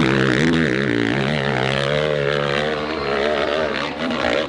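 Dirt bike engine running at high revs, its pitch wavering up and down as the throttle is worked.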